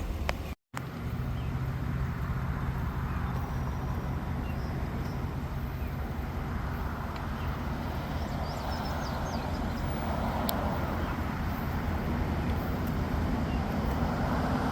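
Steady low rumble of a vehicle, slowly growing louder, with a brief cut-out near the start and a few faint high chirps near the middle.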